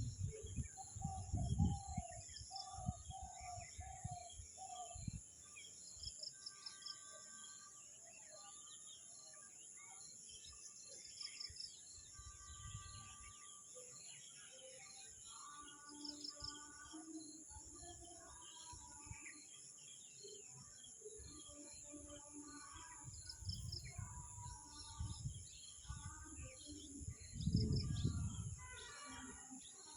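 Several birds chirping and calling, with quick runs of short notes, over a steady high-pitched hiss. A few low rumbles come and go.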